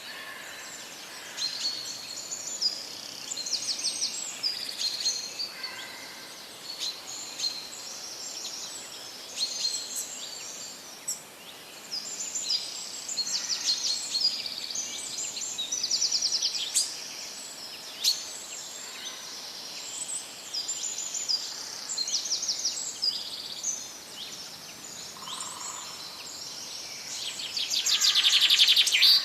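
Several songbirds singing at once, with overlapping high chirps and quick trills over a faint steady hiss. A louder, dense trill comes near the end.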